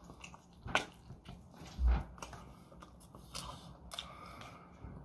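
Close-up chewing and wet mouth clicks of a person eating a piece of Hong Kong-style barbecue, with one dull low thump about two seconds in.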